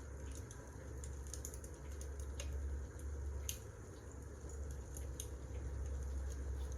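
Wood fire burning: a low steady rumble with irregular small crackles and pops.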